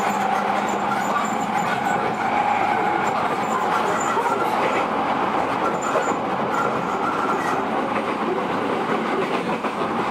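JR E231 series electric train running at steady speed: continuous rolling noise with a held hum and a few brief wheel clicks.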